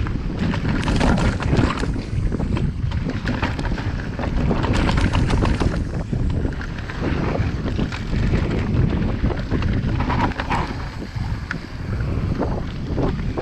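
Wind buffeting a chest-mounted action camera's microphone during a fast downhill mountain-bike run, a steady loud rumble with frequent rattles and knocks from the bike over rough trail.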